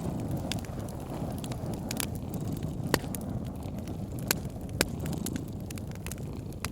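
Wood fire crackling, with sharp pops scattered through it, over a cat's low purr that swells and fades about once a second.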